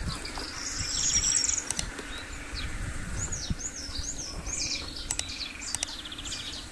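Small birds chirping outdoors: a run of short, high, down-sweeping chirps, with a quick rattling trill about a second in and another near the end. A few sharp ticks sound in the second half.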